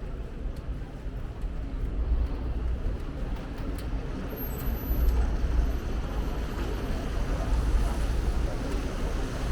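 Rainy city street ambience: a steady low rumble of traffic over an even hiss of wet noise, with a few faint ticks in the first few seconds.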